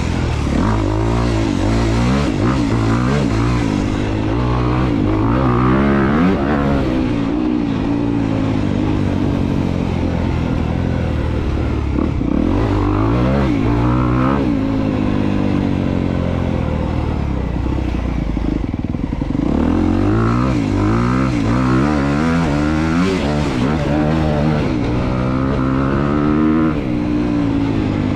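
Honda CRF250R's single-cylinder four-stroke dirt bike engine being ridden hard, its revs rising and falling over and over as the throttle is worked.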